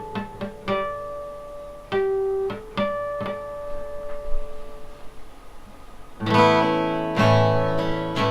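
Acoustic guitar playing an intro: single picked notes ringing out one after another, then full strummed chords coming in about six seconds in, louder.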